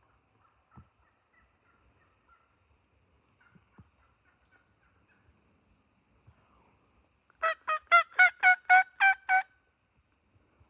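A series of about eight loud turkey yelps, evenly spaced at roughly four a second and lasting about two seconds, coming after faint soft calls and a few light knocks.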